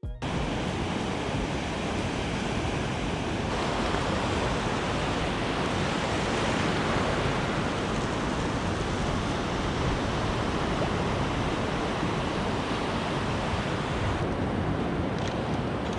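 Ocean surf washing onto the beach in a steady rush, with wind blowing on the microphone.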